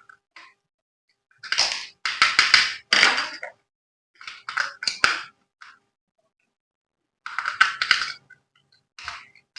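Packaging being handled in bursts of crinkling and rustling, with a few sharp clicks, starting and stopping every second or two.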